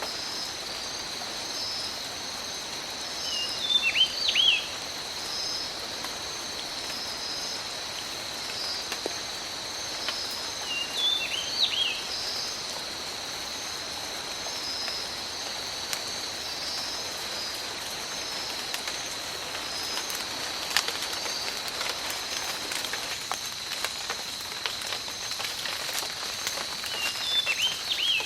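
Steady rain falling in a tropical forest, with a constant high drone and a pulsing chirping chorus above it. A bird gives a short call of a few notes three times, roughly every eight seconds, and from the middle on, heavier drops tap nearby more often.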